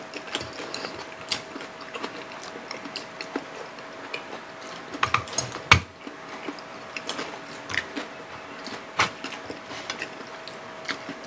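Close-up eating sounds: chewing, lip smacks and wet finger clicks as fried milkfish and rice are eaten by hand, in scattered short sharp bursts, the sharpest about halfway through. A faint steady hum runs underneath.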